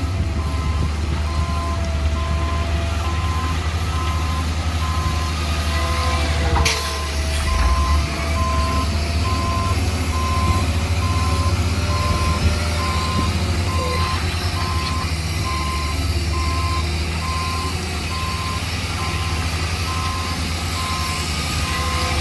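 Heavy diesel construction machine running, its reversing alarm beeping steadily at about one beep a second over the low engine rumble. A sharp knock sounds about seven seconds in.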